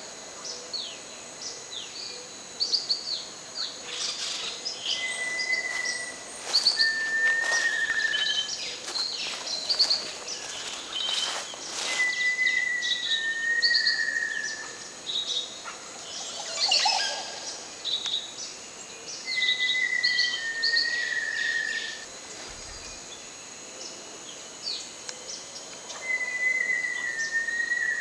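A jungle bird singing a repeated whistled song: two long clear notes, the second a little lower, coming back about every seven seconds. Other birds chirp in short, higher notes between the songs.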